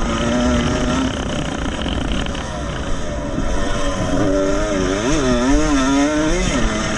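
Small two-stroke motocross motorcycle engine, a 1975 MX125, racing. It holds a steady pitch for about a second, runs rougher for a stretch, then revs up and down several times in quick succession before steadying near the end.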